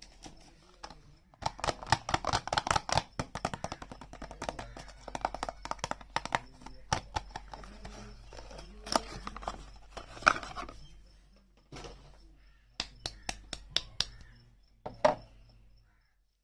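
Packaging being handled and unpacked close to the microphone: rustling and crinkling with many sharp clicks and taps, dense early on, with a quick run of clicks near the end.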